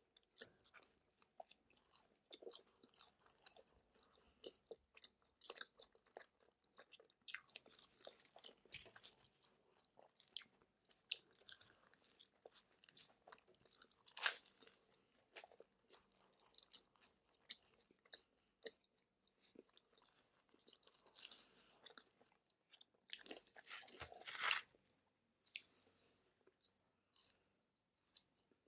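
Close-miked chewing and biting of pizza crust by two people: soft, irregular mouth sounds and crunches, with a few sharper crunches, the loudest about halfway through.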